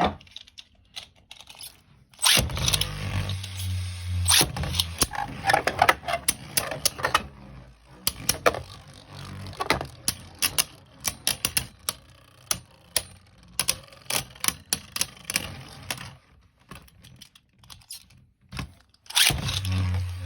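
Beyblade spinning tops launched into a plastic stadium. Each launch starts loudly with a low hum, followed by rapid sharp clacks as the tops strike each other and the walls. The clashing thins out and stops about sixteen seconds in, and a second launch starts loudly near the end.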